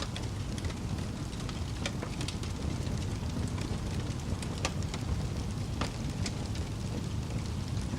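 Fire crackling: scattered sharp pops and snaps, several a second at irregular intervals, over a steady low rumble of burning flames.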